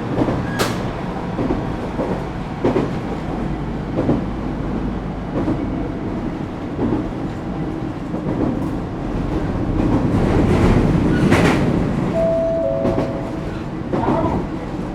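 An Echigo TOKImeki Railway ET127 series electric train running, heard from aboard: steady rolling rumble with irregular knocks of the wheels over rail joints. The noise swells louder for a second or two around the ten-second mark.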